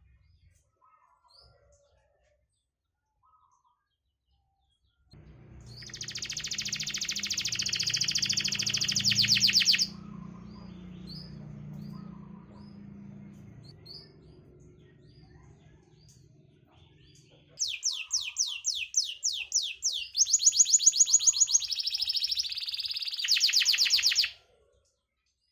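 Domestic canary singing: after a few soft chirps, a loud, very rapid high trill of about five seconds, then short scattered notes and a closing run of fast trilled phrases. A steady low hum sits beneath the first half of the song.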